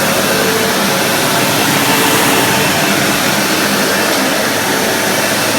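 Sebe X4 Pet upright vacuum cleaner running steadily on carpet, a constant motor and airflow noise.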